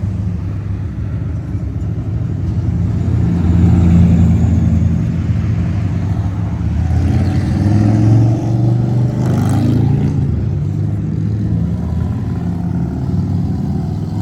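Classic car engines rumbling as cars cruise slowly past, swelling louder about four seconds in and again about eight seconds in.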